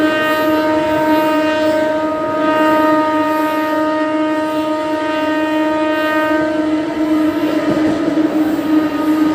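A passenger train running, with a loud, steady pitched tone held throughout over rumbling track noise.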